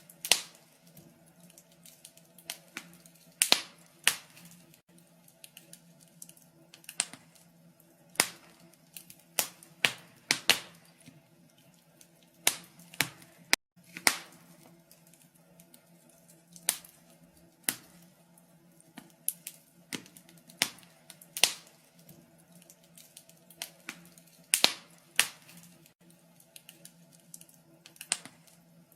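Wood fire in a fireplace crackling: irregular sharp snaps and pops, sometimes several in quick succession, some much louder than others, over a faint steady hum.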